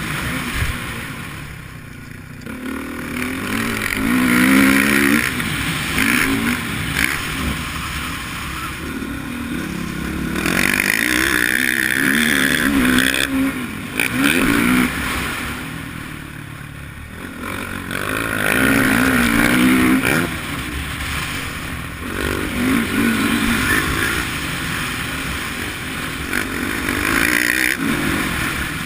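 Motocross dirt bike engine revving up and dropping back again and again, its pitch rising and falling as the throttle is opened and closed around the track.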